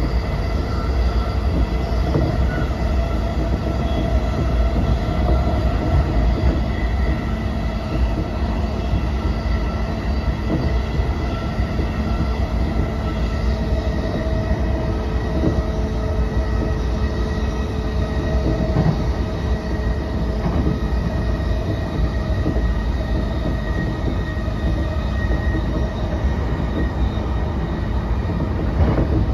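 Cabin running noise of a JR East E233-5000 series electric train at speed: a steady low rumble of wheels on rail, with a few thin, steady whining tones over it.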